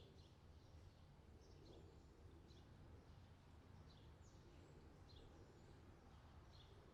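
Faint forest birdsong: short high chirps, each dropping in pitch, about one a second, over a low steady hum.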